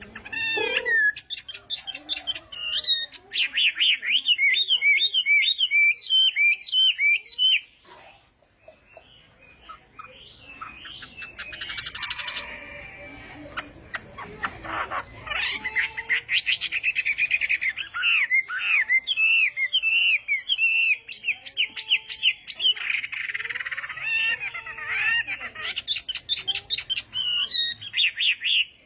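Chinese hwamei (họa mi) singing a loud, varied song of rapid repeated whistled phrases. The song breaks off about eight seconds in for a couple of seconds, then picks up again and runs on strongly through the second half.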